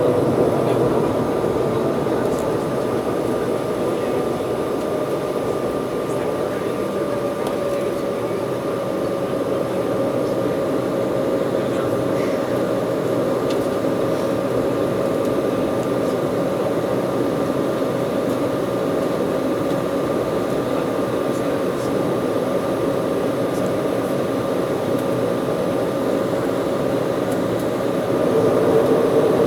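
Inside the cabin of an Embraer 190 airliner in flight: the steady rush of its two CF34 turbofan engines and the airflow, with a constant whine running through it. It grows a little louder near the end.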